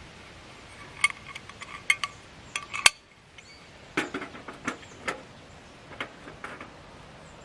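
Metal camp cookware and utensils being handled: an irregular series of clinks and knocks, some ringing briefly.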